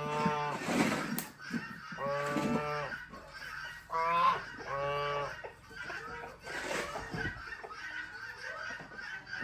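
Geese honking: four short calls in the first five seconds, with a couple of noisy clatters in between.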